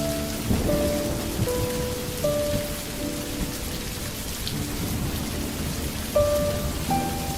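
Steady rain with low rumbles of thunder, under a slow, soft melody of held notes.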